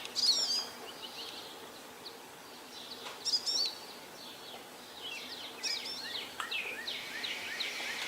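Wild songbirds singing in short, high warbling phrases every couple of seconds, over faint steady background noise.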